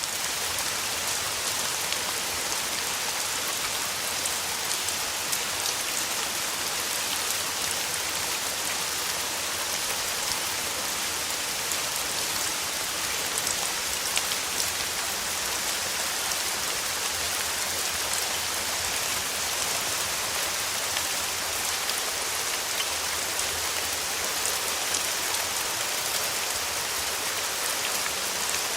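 Steady rain falling: an even, constant hiss with many small, sharp drop impacts scattered through it.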